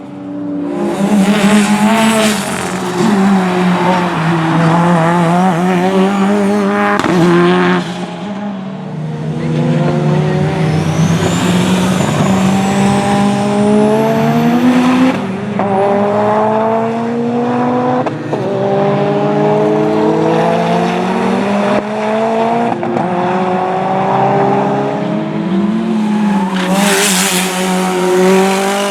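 Time attack race car engine at full throttle on a circuit, its pitch climbing and then dropping sharply again and again as it shifts up through the gears.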